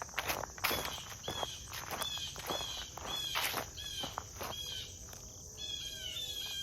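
Jays giving repeated short downslurred alarm calls, about two a second, over a steady high insect drone. Footsteps crunch through the first few seconds.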